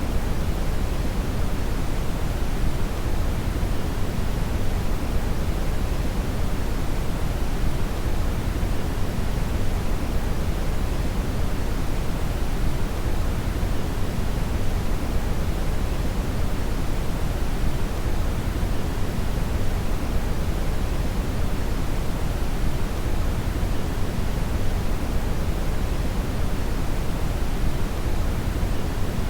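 Brown (red) noise: a steady, deep hiss, strongest in the bass and falling off toward the treble, with no change throughout.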